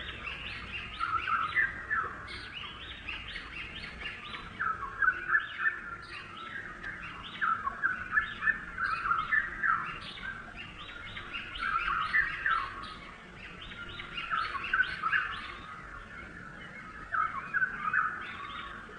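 Small birds chirping: many short, rapid chirps overlapping continuously, like several birds calling together.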